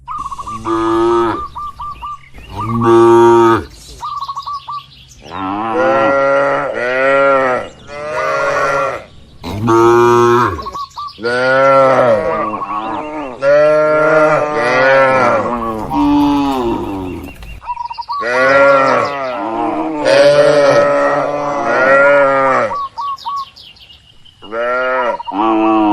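Cattle mooing over and over, one long call after another and often overlapping, each call rising and then falling in pitch.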